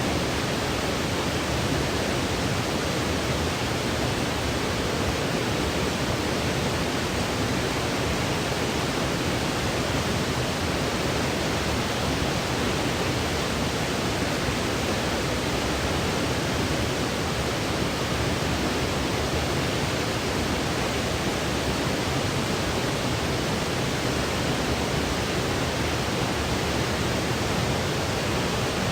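Continuous generated white noise for sleep: an even, steady hiss with no change in level and no other sounds.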